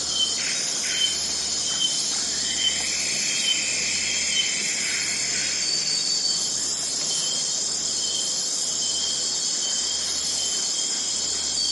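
Forest ambience: a steady chorus of crickets and other insects with a dense high hiss. Over it, short high chirps repeat about once a second through the first few seconds.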